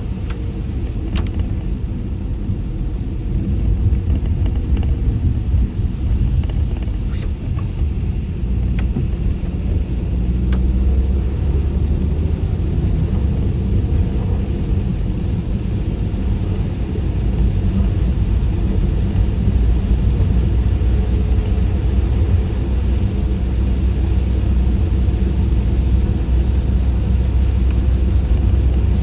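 Steady low rumble of a car being driven, heard from inside the closed cabin: road and engine noise, with a few faint ticks in the first ten seconds.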